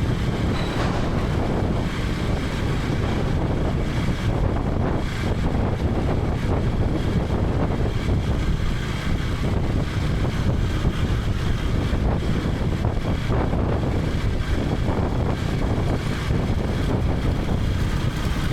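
KTM 250 Adventure's single-cylinder engine running on the move, under steady wind noise on the camera microphone.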